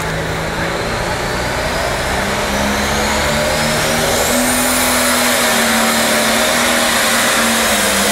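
Pulling tractor's engine running loud under load, its pitch stepping up as it revs, with a high whine that climbs about four seconds in and holds.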